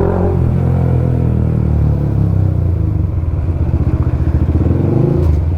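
Bajaj Pulsar NS200's single-cylinder engine running through an aftermarket full-system exhaust while riding. The note drops as the throttle closes early on, then runs at low revs with each exhaust pulse heard separately, and picks up again near the end.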